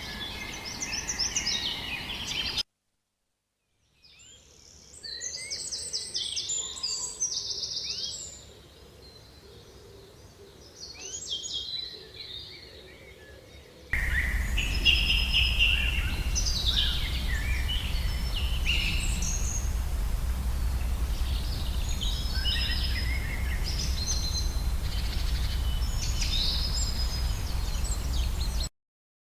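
Songbirds singing and chirping in quick high calls and trills, in spliced segments: the sound cuts to silence for about a second early on, and from about halfway through the birdsong sits over a steady low rumble.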